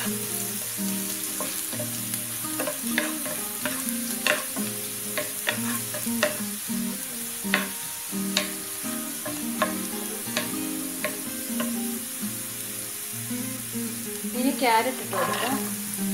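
Chopped green beans frying in hot ghee in a nonstick pan, with a steady sizzle, while a wooden spatula stirs them and knocks against the pan in irregular clicks. A louder burst of clatter and sizzle near the end as diced carrots go into the pan.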